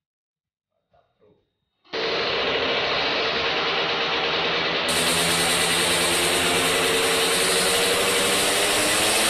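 Racing Yamaha F1ZR two-stroke single-cylinder engine, bored to 116cc, running steadily. It comes in abruptly about two seconds in.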